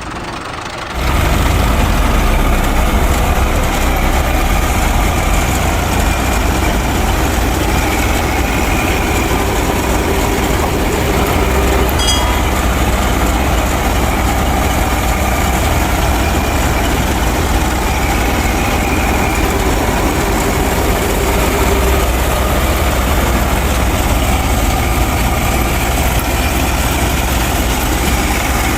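Tractor engine running steadily with a heavy, low drone, coming up to full level about a second in and holding there.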